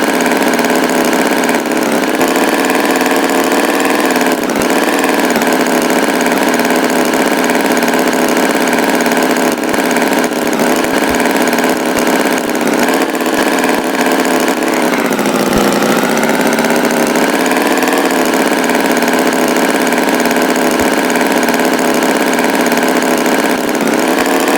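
Tractor engine running steadily, its pitch dipping and then climbing back about two thirds of the way through.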